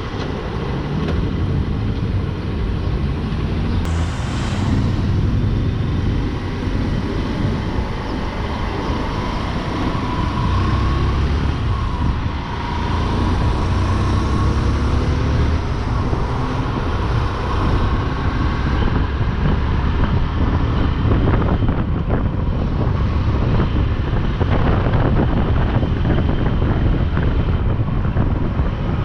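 Motorcycle engine running on the move, with wind rushing over the microphone and road rumble. The engine note wavers a little as the speed changes.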